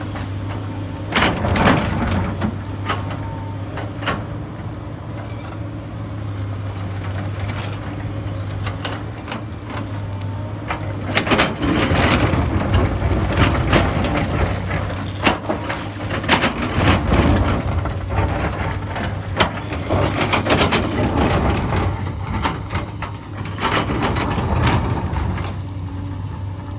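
Hyundai excavator's diesel engine running steadily under load, with rock and soil clattering and scraping many times as the bucket digs, busiest through the middle.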